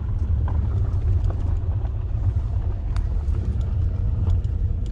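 Steady low rumble of an SUV's running engine, heard from inside the cabin, with a few faint scattered clicks.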